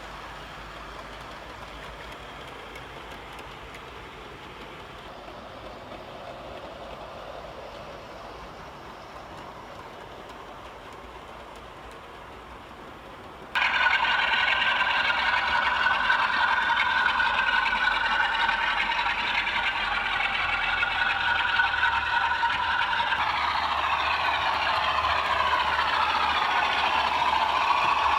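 OO gauge model train running on layout track, its wheels rattling over the rails. About halfway through, a much louder sound with several steady tones cuts in abruptly, and its pitches begin to slide near the end.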